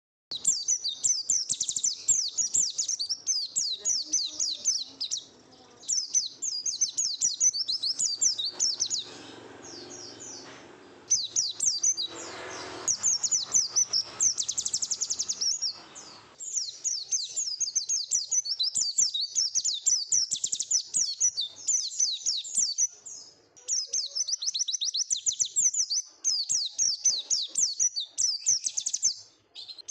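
Pet white-eye (pleci) singing a long, fast twittering song of high chirps, in runs of several seconds broken by brief pauses.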